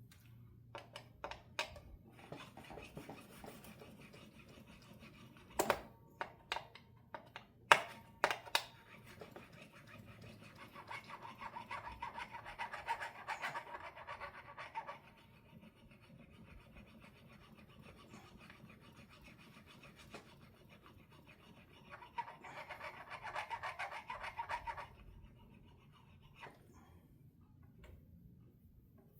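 Small metal fret file scraping back and forth across a guitar fret to smooth it, in two spells of rubbing strokes. Before them comes a run of sharp clicks and knocks, the loudest about eight seconds in.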